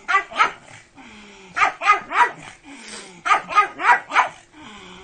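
A pug barking in three quick bursts: two barks, then three, then four, with short pauses between.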